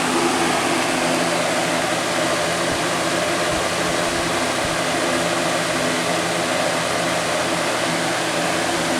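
Lasko 20-inch box fan, model 3723, running steadily on its high setting: an even rush of air with a low motor hum beneath it.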